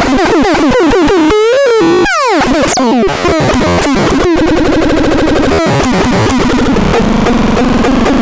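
Synthesizer being played: warbling notes that slide up and down in pitch, a falling sweep about two seconds in, then a dense buzzing tone that pulses rapidly.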